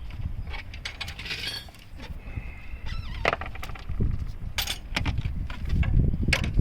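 Metal tools clinking and knocking against each other and the engine mount hardware, a few sharp scattered clicks over low rumbling handling noise.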